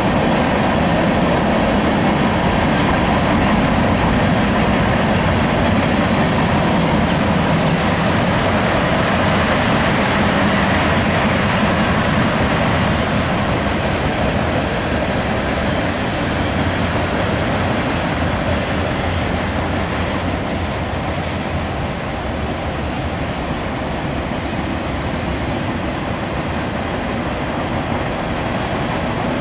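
Freight train cars (covered hoppers and a tank car) rolling past: steady rolling noise of steel wheels on rail, easing slightly in the middle.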